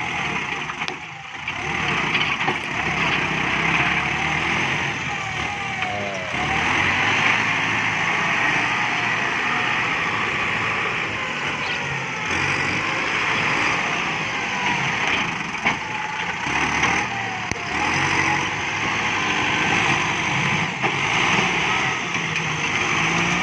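Kubota MU5702 tractor's diesel engine running steadily under working load, its pitch wavering a little as the load changes.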